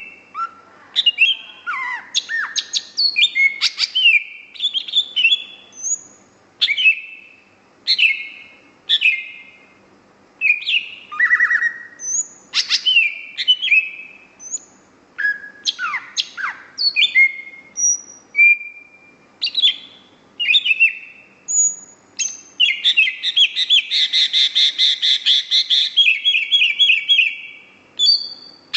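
A cucak ijo (green leafbird) singing: a varied string of loud, clear whistled notes and slurred chirps in short phrases, broken near the end by a fast rattling trill of rapid repeated notes lasting several seconds.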